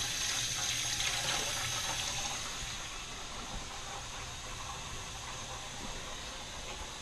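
Kitchen tap running into a sink while a utensil is washed, with a steady splashing that gets a little quieter about three seconds in.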